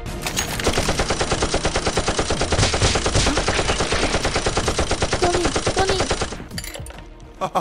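Rapid automatic gunfire, one long burst of many shots a second that stops near the end.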